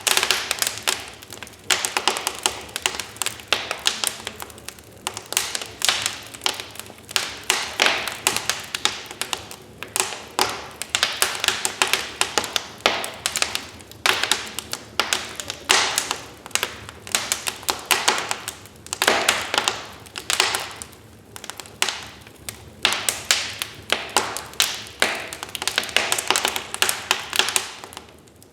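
Wood fire crackling: a dense, irregular run of sharp pops and snaps from burning logs, with a soft hiss underneath.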